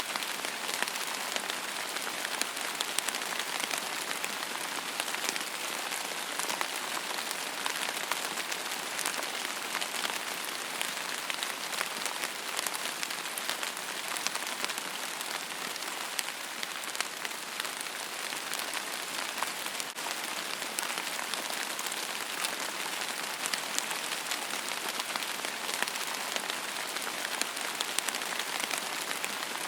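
Steady rain falling on a surface: an even hiss thick with small, sharp drop ticks, with little low rumble and no thunder.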